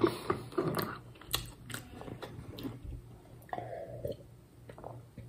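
Close-up chewing of a gummy juju sweet: soft wet clicks and smacks, busiest in the first two seconds, then sparser.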